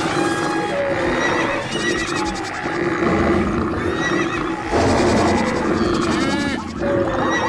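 A dense layered mix of animal call sound effects for a running herd of wild animals, with a horse whinnying about six seconds in.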